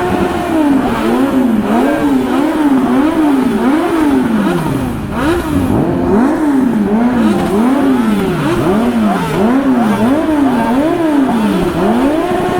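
Kawasaki inline-four superbike engines revved over and over in quick blips, the exhaust pitch climbing and falling back roughly once or twice a second, with more than one engine's rises crossing one another. The engines are loud throughout.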